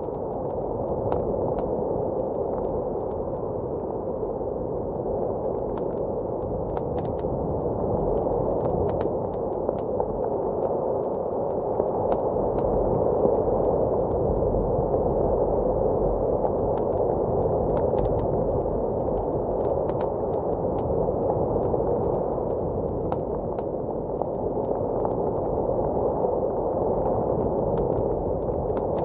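Fireplace crackling with irregular sharp pops and snaps over a steady low rush of blizzard wind.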